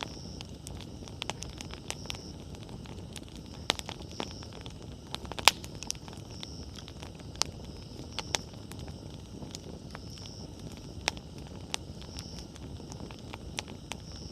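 Wood campfire crackling, with irregular sharp pops of burning firewood over the low steady noise of the flames; the loudest pop comes about five and a half seconds in.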